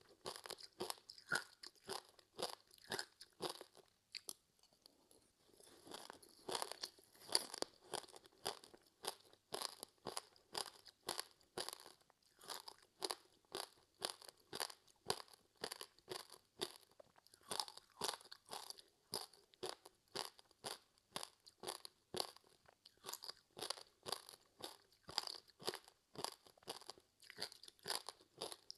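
Close-miked chewing of a crispy seaweed-wrapped rice snack: a steady run of crisp crunches, about three a second, with a short pause about four seconds in.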